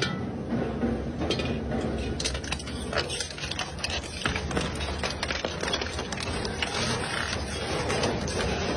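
Industrial shredder grinding through metal: a steady low drone with many irregular sharp cracks and snaps as the material breaks up.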